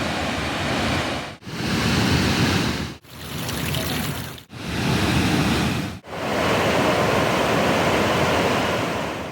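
Rushing water in a steady loud wash, heard over five short clips with a brief drop in sound at each cut between them.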